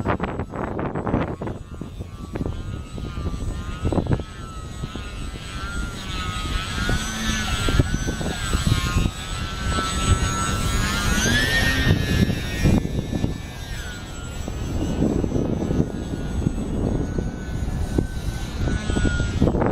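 A small EPP foam radio-control plane's motor and propeller whine, wavering up and down in pitch and rising about 11 seconds in as the throttle changes, then fading. Strong wind buffets the microphone throughout, in gusty surges.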